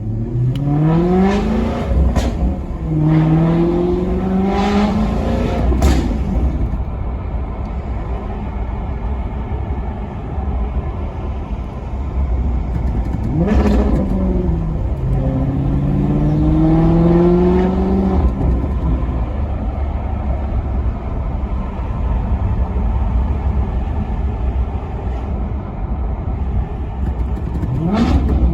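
Maserati Quattroporte Sport GT's V8 engine accelerating hard. It rises in pitch twice near the start with a gear change between, backs off, then pulls up again through the middle after a quick blip, settles to steady running, and starts rising again at the very end.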